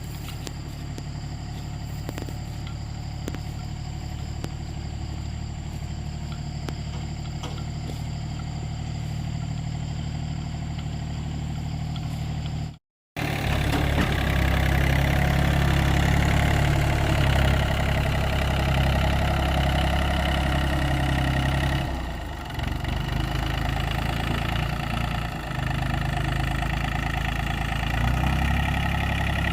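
An engine running steadily. It cuts out for an instant about 13 seconds in, then comes back louder, dipping briefly once about 22 seconds in.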